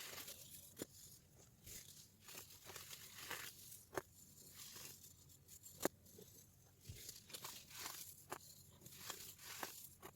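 Hardened baking soda being crushed: a continuous run of dry crunches and crackles, with sharper snaps about four and six seconds in.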